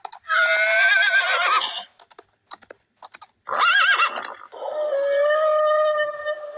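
Animal calls: a loud quavering call, a few sharp clicks, a second short quavering call, then one long steady call held for a couple of seconds near the end.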